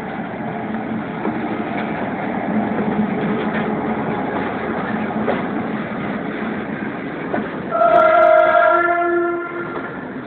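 Wagons of a short work train rolling past with a steady rumble and wheel-on-rail rattle. About eight seconds in, a train horn sounds for roughly a second and a half, its chord changing partway through.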